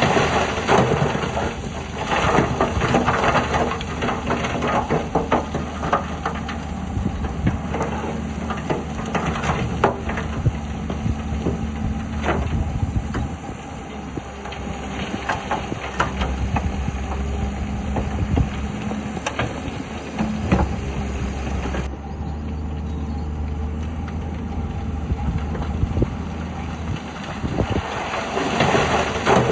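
Crawler bulldozer's diesel engine running steadily, with frequent irregular clanks and knocks from its tracks and the rock and soil it is pushing.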